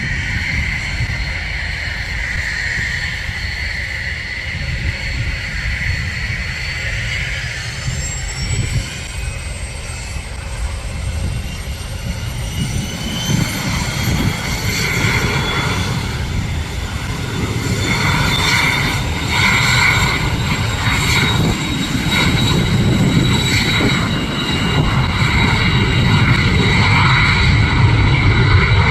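Airliner's engines running with a high whine that climbs in pitch over several seconds, then holds steady over a low rumble that grows louder, as the engines spool up.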